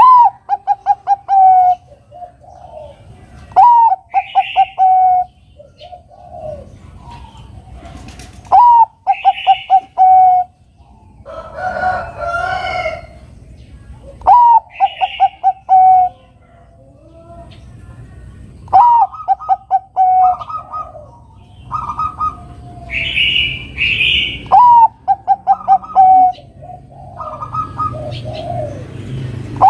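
Bangkok-type zebra dove (perkutut) singing its cooing song: a rising-falling opening note followed by a quick run of short, even coos, repeated about every five seconds. Other bird calls sound faintly between the phrases.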